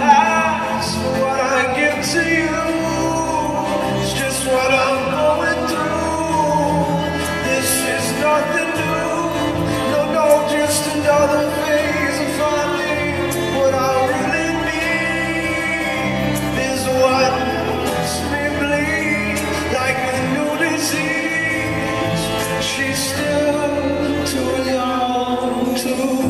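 A song: a voice singing over instrumental accompaniment.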